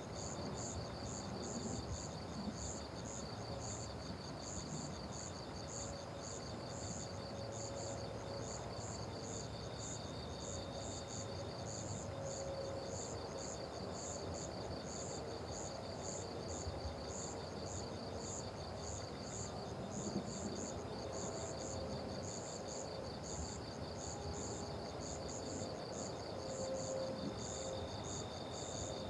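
Chorus of crickets chirping in rapid, evenly pulsed high trills, with a second steady trill joining for a couple of seconds about ten seconds in and again near the end.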